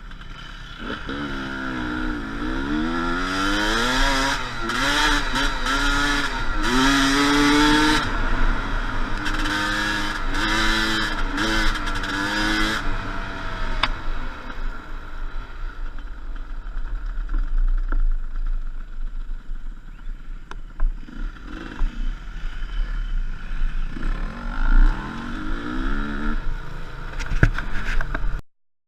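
Enduro dirt-bike engine revving up and down again and again, then running more evenly, with another burst of revving near the end.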